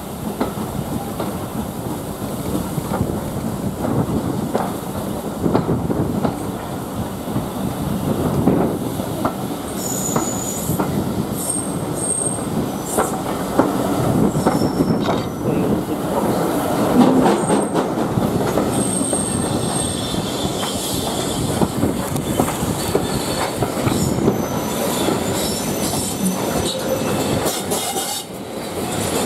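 Passenger train running, heard from aboard a carriage: a steady rumble and clatter of wheels on the rails, with thin high wheel squeals a few times, about a third of the way in and again just past the middle.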